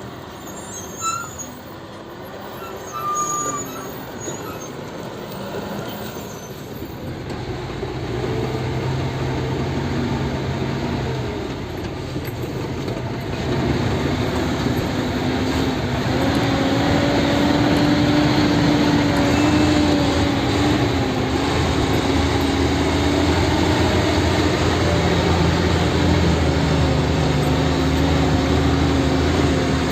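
Heavy diesel engine of construction machinery running, getting louder from about seven seconds in and settling into a steady loud drone with a held pitch from about halfway.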